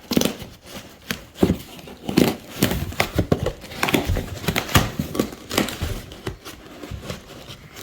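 Packaging being pulled and torn at by hand in a struggle to open a parts box: irregular crinkling, rustling and sharp snaps.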